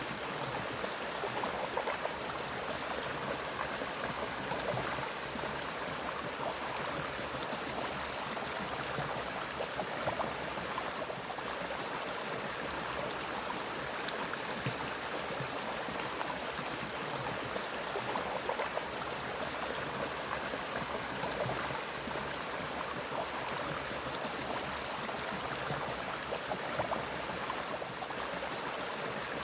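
Forest stream flowing steadily over rocks, an even rushing and gurgling of water, with a steady high-pitched tone above it.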